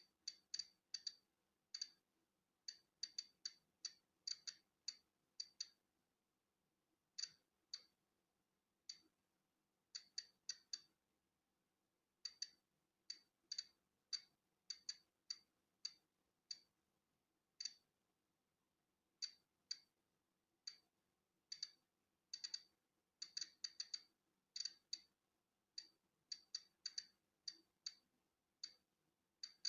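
Polon EKO-C digital Geiger counter clicking at random, irregular intervals as it counts natural background radiation: short, sharp, high clicks, roughly two a second on average, sometimes bunched in quick runs and sometimes with gaps of a second or two.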